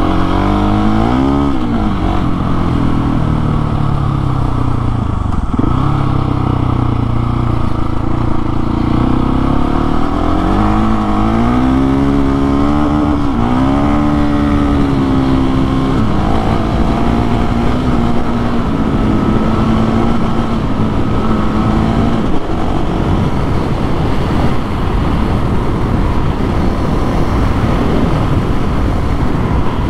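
Husqvarna 701 Supermoto's single-cylinder engine under way, its pitch climbing and dropping several times as it accelerates, then holding one steady pitch for several seconds. In the last several seconds a steady rushing noise takes over and the engine tone is faint.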